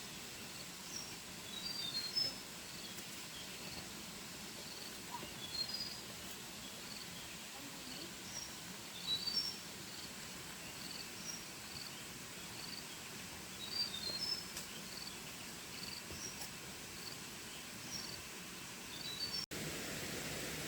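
Forest birds giving short high chirps, one after another, over a steady background hiss.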